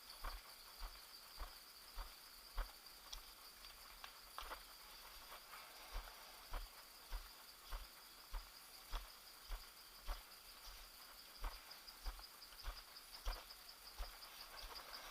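Footsteps walking at an even pace, about one step every half second or so, over a steady high-pitched insect trill.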